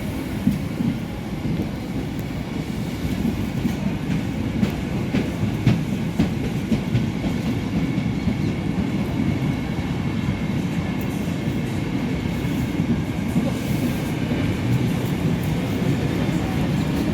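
Train running past on the rails: a steady low rumble with the wheels clacking over rail joints now and then.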